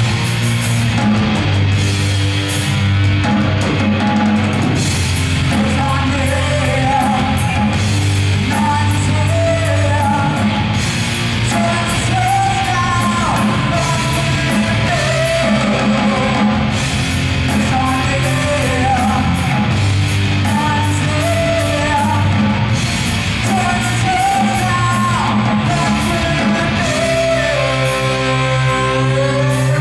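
Loud rock music: distorted electric guitars, bass and a drum kit, with a bending lead melody on top. Near the end the drums drop back and the melody holds long notes.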